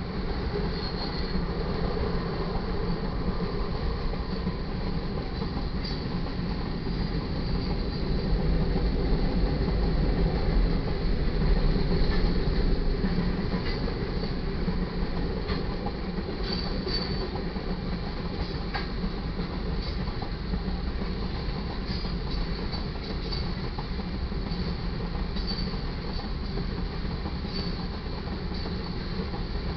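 Freight train cars rolling past: a steady rumble of steel wheels on rail, with scattered short high wheel squeals and occasional clanks. It swells a little about ten seconds in.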